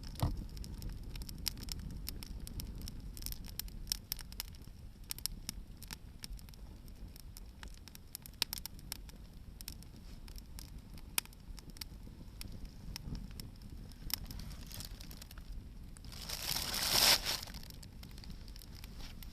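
Hardwood firewood burning in an open bonfire, crackling with frequent sharp pops over a low rumble. About three-quarters through, a louder rushing noise swells for a second or so and then dies away.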